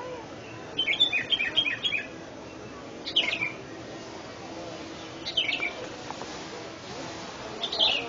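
Songbirds chirping: a quick run of seven or eight high chirps about a second in, then single short high calls that slide downward, roughly every two and a half seconds.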